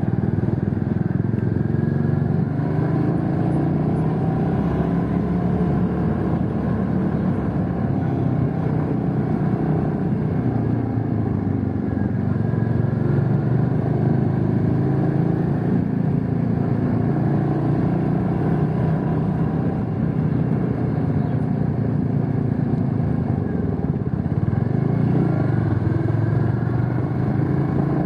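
Motorcycle engine running while riding, its pitch rising and falling with the throttle, over a steady rush of noise.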